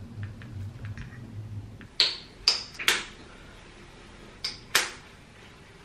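Five sharp clacks on a hard surface: three about half a second apart starting two seconds in, then two more near the end. A low hum sits under the first two seconds.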